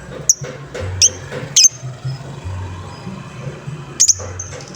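Lovebird giving short, sharp, high-pitched chirps, four in all, spaced irregularly: the ticking call that bird keepers call 'ngetik'.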